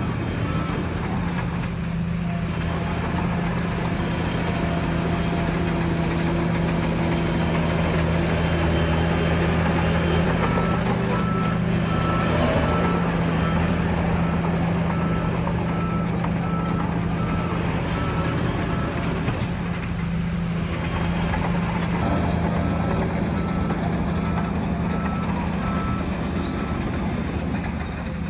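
Heavy earthmoving machine's engine running steadily, with a back-up alarm beeping at an even pace in spells: briefly at the start, then for long stretches in the middle and near the end.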